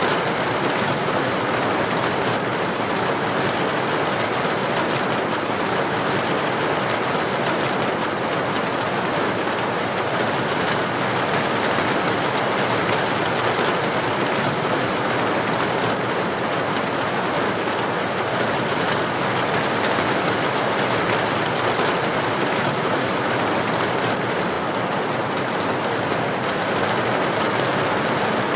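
Heavy rain falling steadily on a street, an even hiss with no thunder claps.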